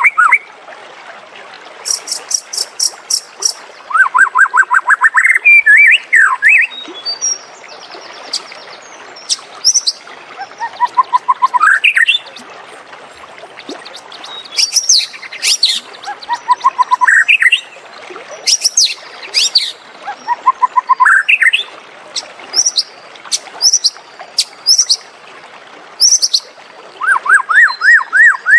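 White-rumped shama singing a varied song: phrase after phrase of fast rattling trills, rising whistled sweeps and sharp high notes, each phrase set apart by a short pause.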